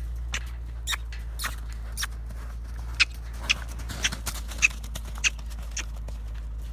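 Horse under saddle moving: irregular light clicks and knocks, about two a second, from its hooves and tack, over a steady low hum.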